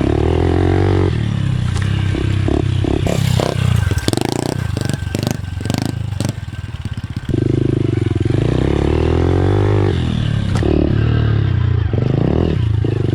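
Pit bike engine being ridden, revving up and down through the gears. About three seconds in it drops off the throttle with a rattle of sharp clicks and clatter for a few seconds, then pulls hard again.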